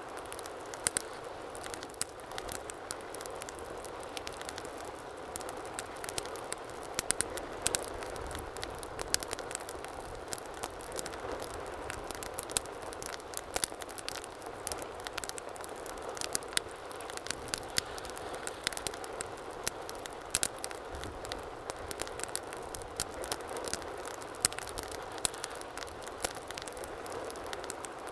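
Wood fire burning with a steady hiss and frequent sharp crackles and pops throughout.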